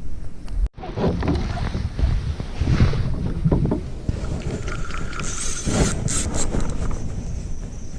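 Wind rumbling on the microphone over water and kayak handling noise, with a few louder knocks and splashes. The sound drops out briefly under a second in.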